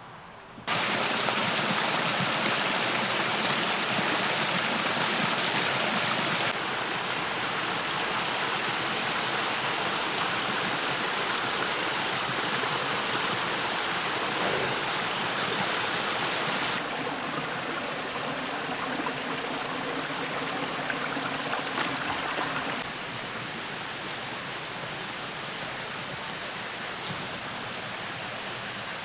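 A creek's water running and splashing in a steady rush. It starts suddenly and steps down in loudness a few times.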